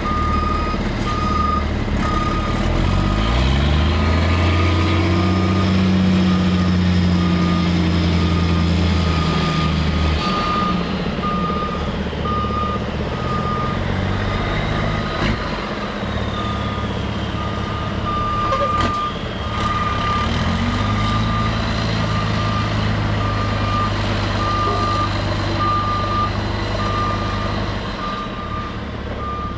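Racing-truck diesel engines running, twice rising in pitch and then holding a steady drone, over a high repeating beep like a reversing alarm.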